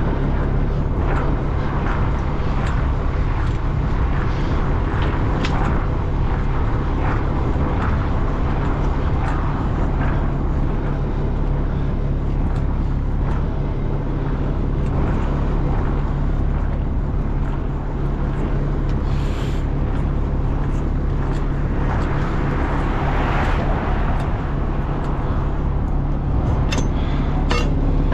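A large engine running steadily, with frequent clanks and rattles throughout.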